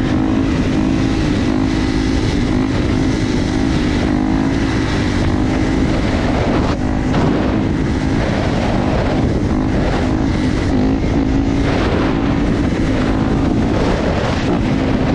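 Motorcycle engine running at a fairly steady speed while riding, its tone wavering slightly, over a steady rush of wind and road noise.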